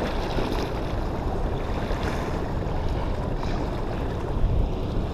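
Steady rush of water below a dam mixed with wind buffeting the microphone, a dense low noise without any tone, with a brief low bump about four and a half seconds in.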